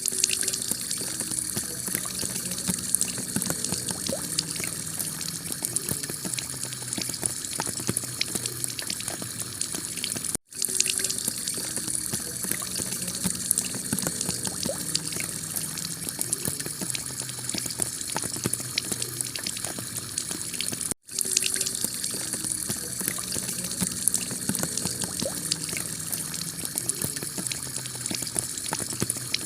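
Heavy rain pelting a clay tile roof: a dense, steady hiss of countless drop impacts. It cuts out for a split second twice, about ten seconds apart, where the recording loops.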